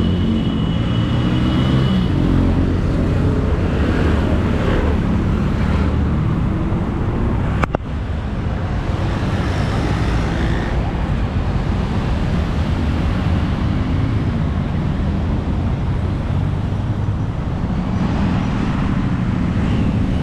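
Steady motor vehicle noise, a low rumble with road hiss, broken by a sharp click about eight seconds in.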